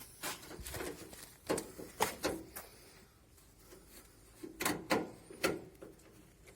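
Scattered clicks and knocks of washing machine panels and parts being handled during disassembly, in two clusters: a few about one and a half to two seconds in, and more around five seconds in.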